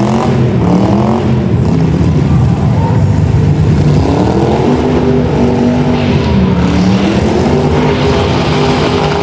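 Car engines revving loudly, their pitch rising and falling again and again.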